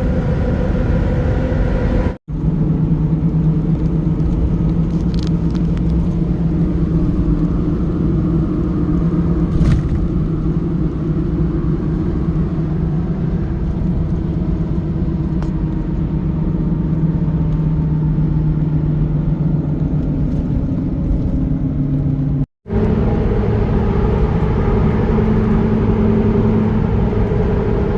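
Pickup truck cruising at road speed while towing a loaded trailer: a steady engine and road-noise drone with a low hum holding an even pitch. The sound cuts out for an instant twice, about two seconds in and again near the end.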